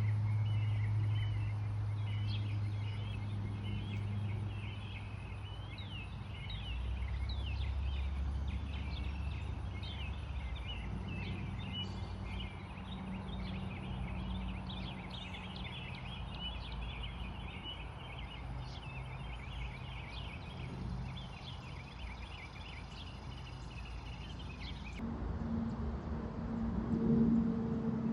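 Many birds chirping over a low steady hum that shifts pitch a few times; about 25 seconds in both cut off abruptly and a different steady low tone takes over.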